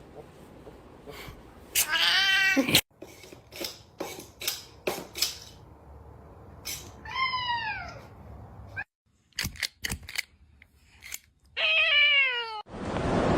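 Domestic cat meowing three times: a loud drawn-out meow, a quieter one, then another loud one, each falling in pitch at the end. Short clicks and knocks fall between the meows, and a steady hiss starts near the end.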